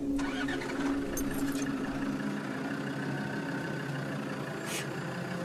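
Safari vehicle's engine idling steadily, with a brief hiss near the end.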